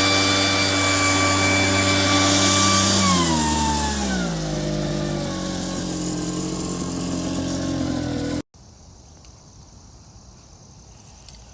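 A small engine running fast, then throttled down, its pitch falling to a lower steady idle about three to four and a half seconds in. It cuts off abruptly at about eight and a half seconds, leaving quiet background with a few faint clicks near the end.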